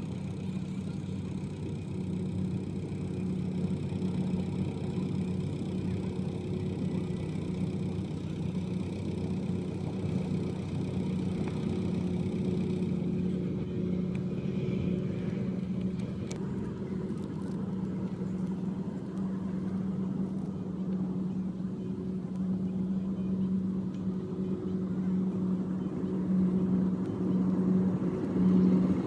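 Rice combine harvester running steadily, its engine and threshing machinery giving one constant low pitch, getting a little louder near the end.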